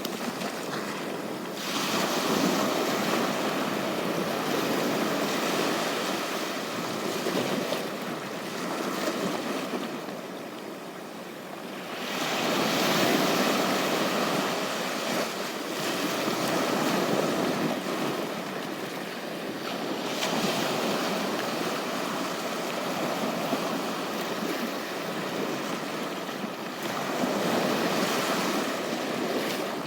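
Ocean surf on a beach: waves breaking and washing up, the rush of water swelling and easing every several seconds.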